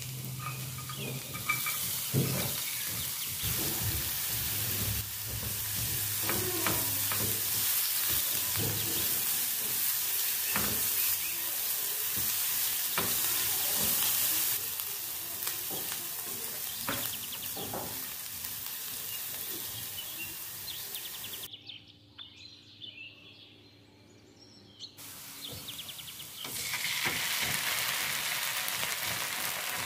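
Garlic and onion frying in oil in a non-stick pan, with a steady sizzle and the clicks and scrapes of a spatula stirring them. The sizzle drops away for a few seconds about three-quarters of the way through, then comes back.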